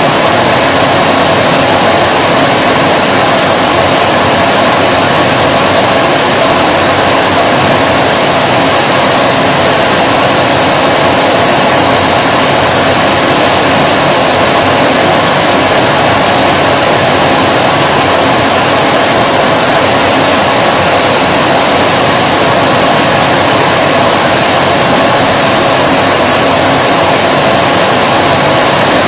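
Vacuum cleaner running steadily: a loud, even rush of air over a constant motor hum, with no change in speed.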